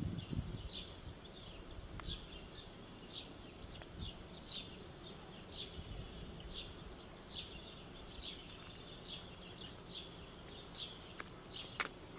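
Small birds chirping repeatedly, short high chirps two or three a second at uneven spacing, over a faint steady low rumble of outdoor background noise.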